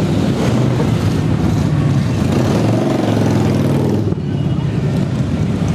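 Motorcycle engines running, with one revving up in pitch through the middle and dropping away sharply about four seconds in.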